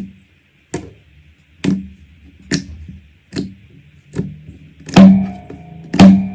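Slime being pressed and poked, giving a series of sharp wet pops and clicks about one every second. The two pops near the end are the loudest.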